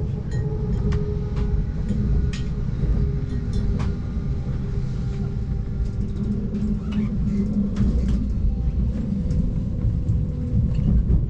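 Inside a moving train carriage: a steady low rumble of the wheels on the track with a faint held hum, and scattered light clicks and knocks.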